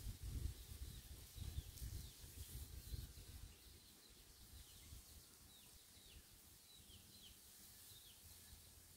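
Faint bird chirping: short, downward-sliding chirps repeated every half second or so. A low rumble in the first few seconds, which dies away about three and a half seconds in.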